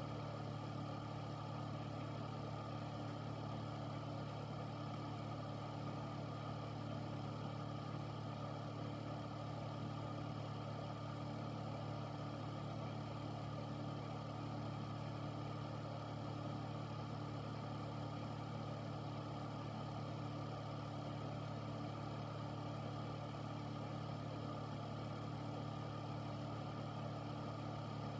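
Air filter running steadily: a low motor hum of a few steady tones under an even rush of fan air, unchanging throughout.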